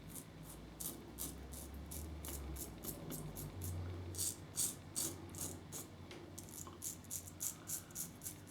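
Double-edge safety razor (Global Shave Club Rain with a Gillette Silver Blue blade) scraping through lathered stubble in quick short strokes, about three or four a second.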